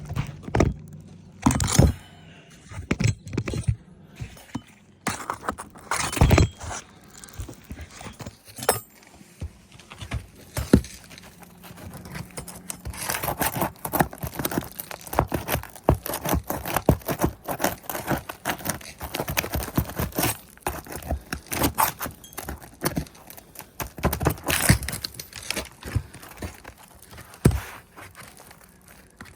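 A hand tool scraping, prying and knocking at brittle asphalt roof shingles and their nails, the shingles tearing around the nail heads: an irregular run of sharp clicks, knocks and scrapes.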